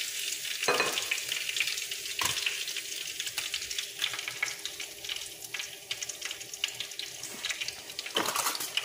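Salmon frying in butter and oil in a ridged grill pan, a steady crackling sizzle. A few sharp knocks come about a second in, around two seconds in and near the end.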